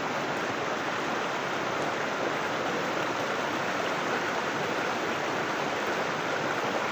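River water rushing and splashing steadily over rocks, an even unbroken rush.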